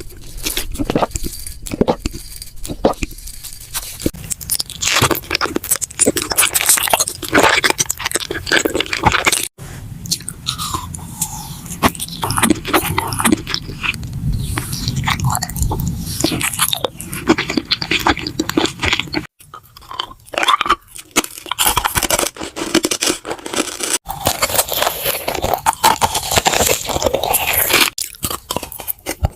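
Close-miked eating: crunchy bites and chewing, dense and crackly, in a string of short segments with several abrupt breaks between them.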